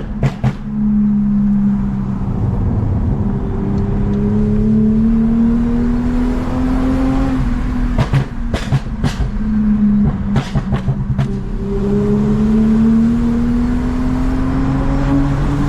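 Toyota Mark X V6 with a modified exhaust accelerating in two long pulls, its note rising steadily and then dropping as it shifts up. A cluster of sharp cracks comes between the two pulls.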